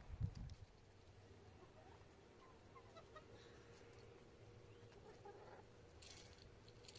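Mostly near silence: a couple of low thumps right at the start, then a few faint, short chirping calls and brief rustles near the end.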